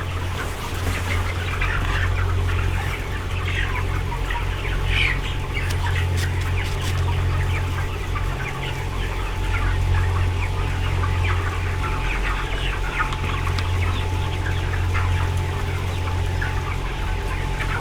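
A shed full of broiler chickens clucking and cheeping together in a dense, continuous chatter, over a steady low hum from the shed's ventilation fans.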